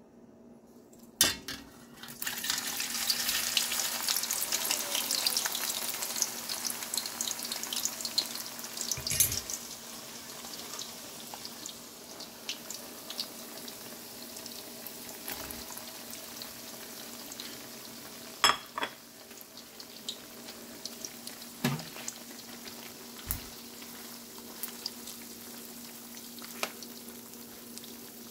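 Flat fish balls and kikiam deep-frying in hot oil in an aluminium wok. A loud sizzle bursts in about two seconds in as the food goes into the oil, then eases to steady frying. A few sharp knocks of a metal spatula against the wok come through along the way.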